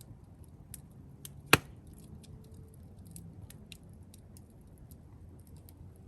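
Wood campfire crackling: scattered small sharp snaps, with one loud pop about a second and a half in.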